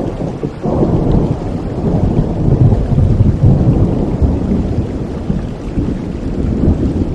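Rolling thunder over steady rain: a deep rumble swells about half a second in, is loudest in the middle and fades toward the end, under a constant hiss of rainfall.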